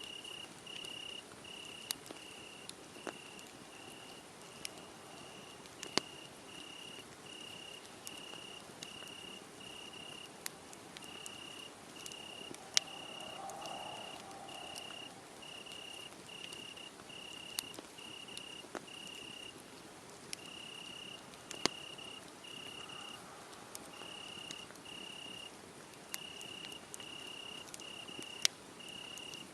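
A cricket chirping in an even, steady pulse of short high chirps, a little under two a second, pausing briefly a few times. Over it a wood fire crackles, with scattered sharp pops that stand out as the loudest sounds.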